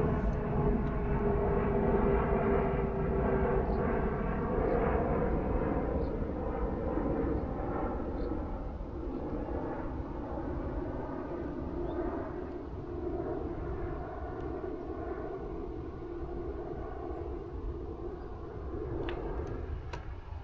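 An aeroplane flying overhead: a steady engine drone whose pitch slides slightly down early on, then fades gradually as the plane moves away.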